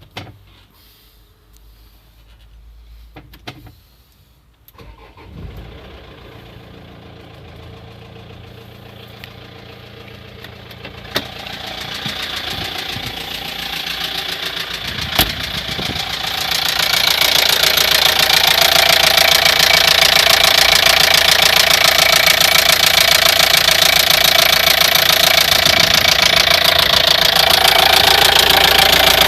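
Opel Vivaro's 1.9 F9Q diesel engine starting after a few clicks, then running and growing louder, loudest from a little past halfway. It has a knock that the owner puts down to a spun bearing shell.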